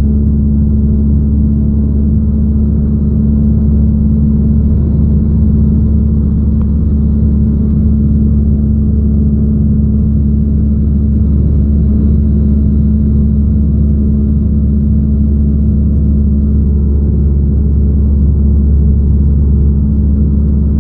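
Cessna 172 piston engine and propeller droning steadily in flight, heard from inside the cockpit: a loud, even hum with a strong low tone that does not change.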